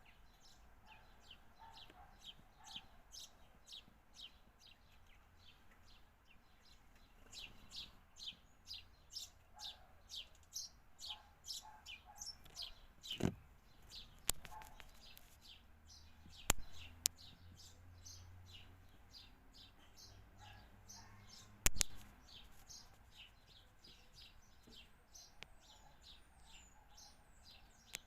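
Small birds chirping over and over in quick, short high chirps, about two to three a second, with several sharp clicks or taps around the middle.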